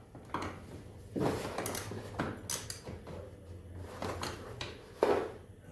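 Hand tools and metal parts clinking and knocking: about half a dozen sharp, irregular strikes.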